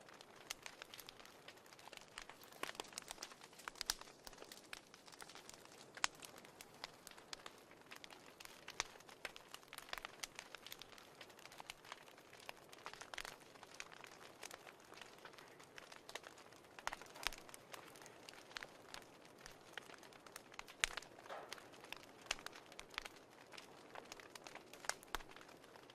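Fireplace crackling: many small irregular pops and snaps over a faint, even hiss.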